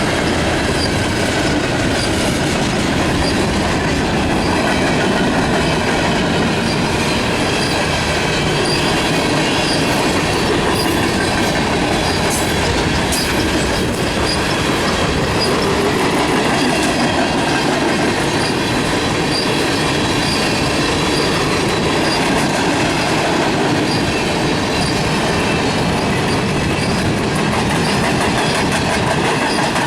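Freight cars of a Canadian National manifest freight train rolling steadily past, with a loud continuous rumble and clatter of wheels on the rails and a faint high wheel squeal.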